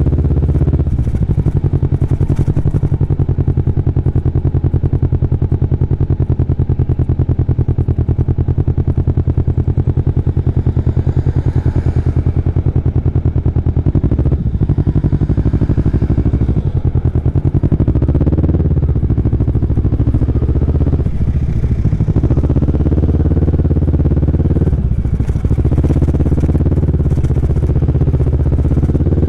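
Kawasaki Vulcan S parallel-twin motorcycle engine running while riding. The note holds steady at first, then dips and picks back up several times in the second half.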